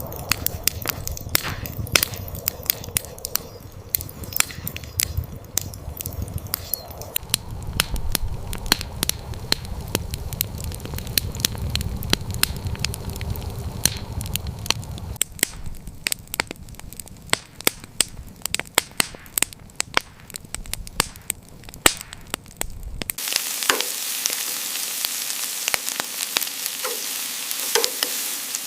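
Wood fire crackling with many sharp pops over a low rumble. About 23 seconds in, it cuts to food sizzling in a hot pan, a steady hiss with occasional pops.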